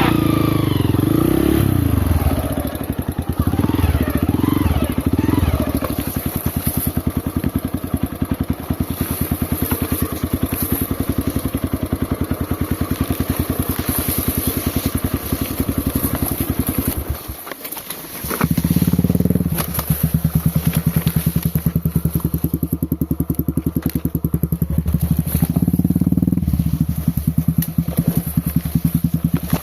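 Dirt bike engine revving up and down unevenly, then dropping away almost to nothing for about a second two thirds of the way in. It then picks up again and runs at a steady, lower speed.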